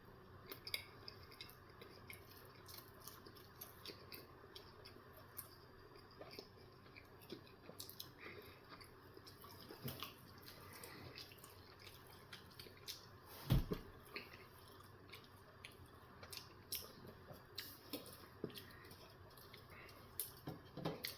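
Quiet, close-miked chewing of a breakfast bagel sandwich: scattered soft mouth clicks and smacks, with one louder dull bump about two-thirds of the way through.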